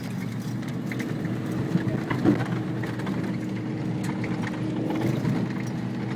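Ford Bronco prerunner's engine running at a steady pitch while driving a rough dirt trail, with scattered clicks and knocks as the truck jolts over bumps, one a little louder about two seconds in.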